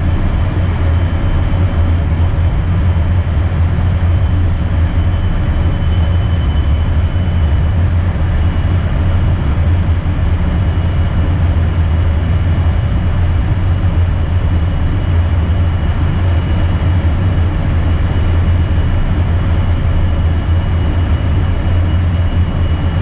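Steady cockpit noise of an Embraer Phenom business jet: a loud low rumble of engines and airflow, with a faint high whine over it.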